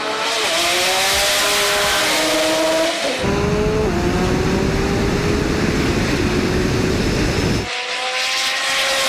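Sports car engine accelerating hard, its pitch climbing through the revs. From about three seconds in there is a heavy low rumble for several seconds, and then the climbing engine note returns near the end.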